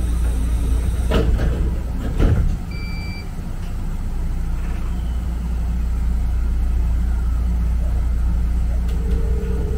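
Steady low running rumble inside an electric train's cab as it moves slowly along the track, with two knocks in the first few seconds and a short electronic beep about three seconds in. A slowly rising whine starts near the end.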